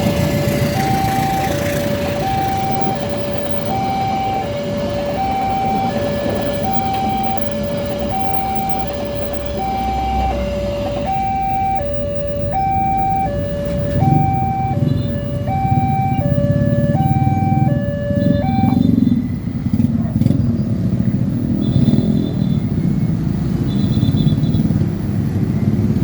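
Railway level-crossing warning signal sounding an electronic two-tone alarm, a high note and a low note taking turns, until it stops about three-quarters of the way through. From a little past the middle, road vehicle engines rumble as traffic builds and carries on after the alarm ends.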